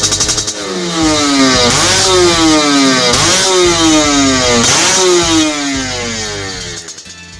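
Yamaha Vixion's single-cylinder four-stroke engine revved through a hollowed-out (bobok) exhaust for a deep, bassy note. The pitch jumps up and falls away slowly, about every second and a half, then dies down near the end.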